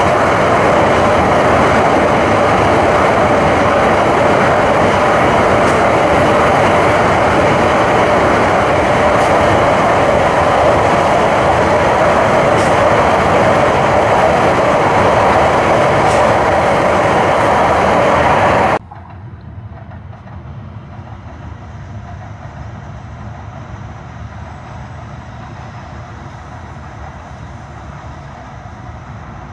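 Tohoku Shinkansen E5/E6 coupled train passing on the elevated track: a loud, steady rushing noise of the running train. About 19 s in it cuts off abruptly and gives way to a quieter, duller rush of the train going by at close range.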